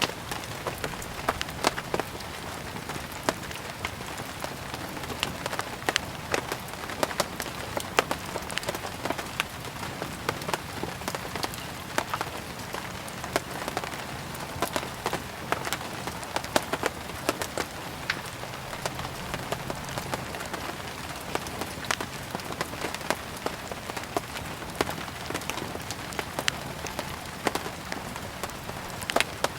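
Steady rain falling on a surface, mixed with a wood fire burning, with frequent short sharp pops and crackles scattered irregularly over the steady hiss.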